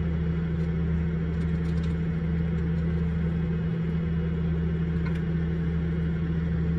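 Vehicle engine idling steadily, a constant low hum with a strong drone.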